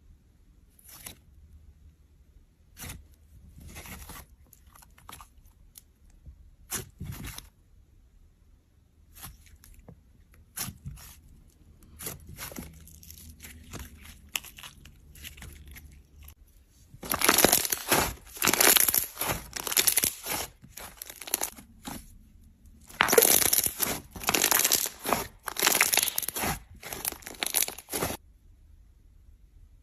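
Slime being worked by hand, giving off sticky crackling and popping. The sound comes in scattered clicks at first, then in two long runs of loud, dense crackles in the second half.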